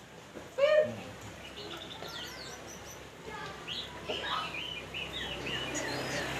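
Songbirds chirping and whistling in quick, varied high notes. A short, loud call comes about half a second in.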